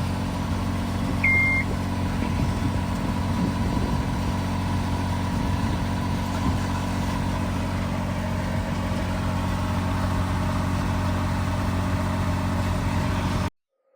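Sailboat's engine running steadily at a low, even idle, with one short electronic beep about a second in. The sound cuts off abruptly near the end.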